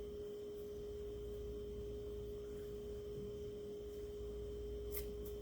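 A steady single-pitched tone with a low hum underneath, such as electrical whine from equipment, with a couple of faint clicks near the end.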